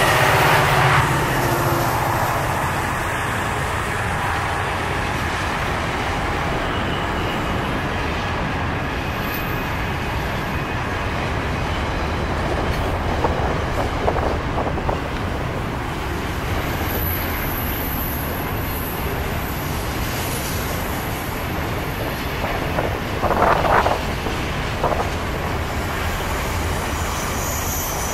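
Long intermodal freight train's container wagons rolling past: a steady rumble of steel wheels on rail with clicking over the joints, the trailing diesel locomotive's engine fading in the first couple of seconds. A few brief sharper squeals from the wheels on the curve stand out about halfway through and again near the end.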